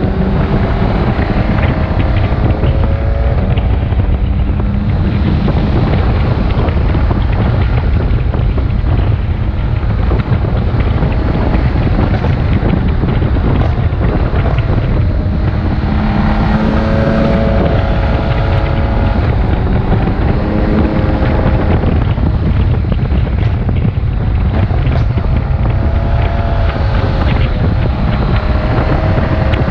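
BMW K1600GTL's inline-six engine running at road speed, its note rising and falling with the throttle several times, under heavy wind buffeting on the microphone.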